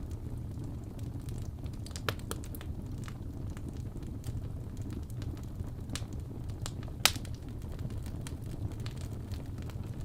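Wood fire crackling in a fireplace: a steady low rumble with scattered sharp pops, the loudest snap about seven seconds in.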